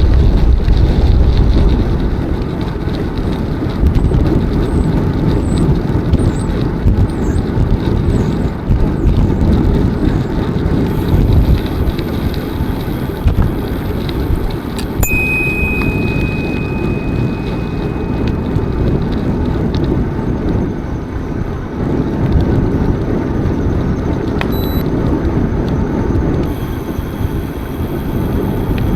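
Wind rushing over the microphone and tyre rumble from a bicycle rolling along a park path, a steady low noise throughout. A few faint high chirps come early on, and a thin high whistle holds for about four seconds around the middle.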